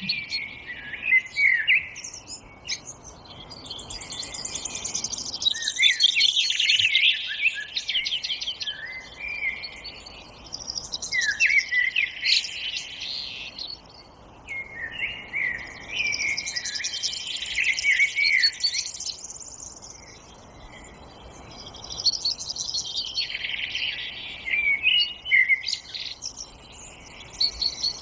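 Wild birds singing, with bursts of rapid chirping song that swell and fade about every five to six seconds over a faint steady hiss.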